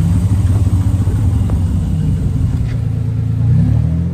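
Hot rod's carbureted V8 engine idling with a low rumble, with a short rise in revs about three and a half seconds in.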